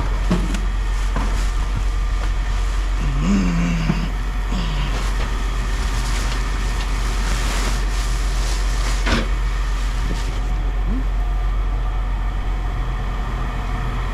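Steady low hum of an idling engine, with a few faint knocks and a short wavering pitched sound about three seconds in.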